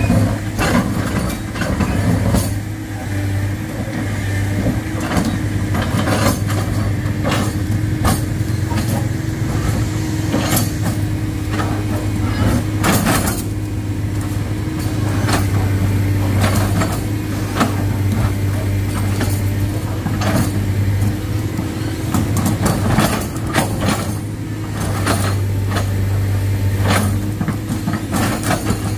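Excavator's diesel engine running steadily under load, with irregular sharp knocks and clanks of the machine working on rock.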